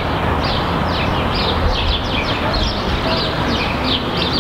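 Small birds chirping, short falling chirps repeated a few times a second, over a steady low rumble of town traffic.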